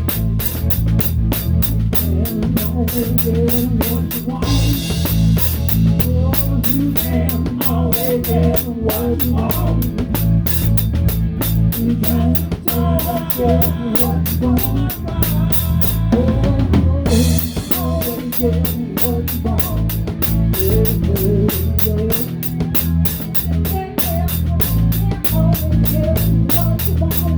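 Live rock band playing an instrumental passage, heard from right at the drum kit: a Pearl kit with a towel-damped snare keeps a steady driving beat of kick, snare and fast cymbal hits over bass and a guitar melody line. A cymbal crash comes about four and a half seconds in, and the cymbal hits drop out briefly around the middle before the beat picks back up.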